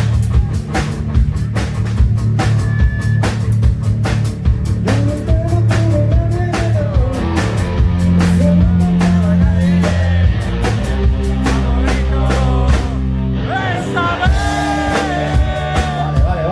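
Live melodic hard rock band playing: a drum kit hits steadily under bass and guitars, and a voice sings a melody from about five seconds in.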